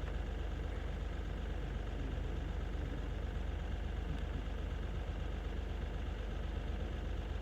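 Steady low engine rumble, even and unchanging.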